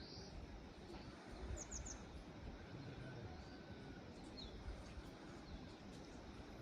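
Quiet hillside ambience with a small bird chirping: a quick run of three high notes about a second and a half in and single short chirps elsewhere, over a faint low rumble.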